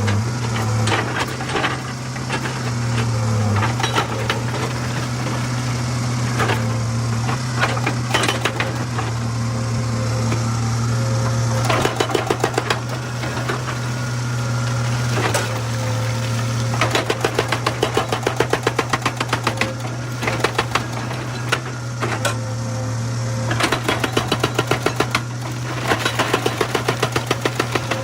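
Excavator's diesel engine running steadily while a hydraulic rock breaker hammers stone in spells of rapid blows, about eight a second, with pauses between the spells.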